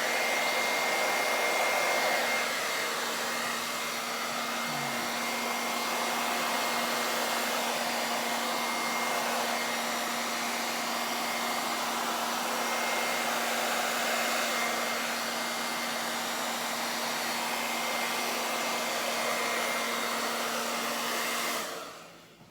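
Hair dryer blowing fluid acrylic paint across a canvas: a steady rush of air with a constant motor whine, switched off near the end.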